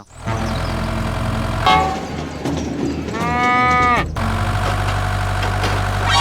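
Small engine running steadily, with a short pitched tone a little under two seconds in and a longer, louder pitched call about three seconds in that sags in pitch as it ends.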